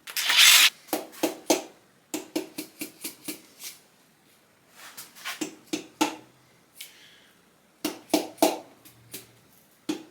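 Hand work on bare engine internals: a short scraping rub, then a series of light metal clinks and taps as bearing caps and bearing shells are handled.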